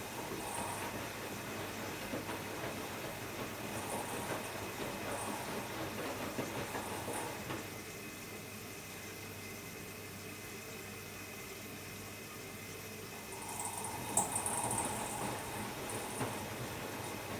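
Hotpoint-Ariston Aqualtis AQD972F washer-dryer running a wash cycle, water moving in the drum with a steady mechanical rumble. It goes quieter for a few seconds in the middle, then picks up again about fourteen seconds in.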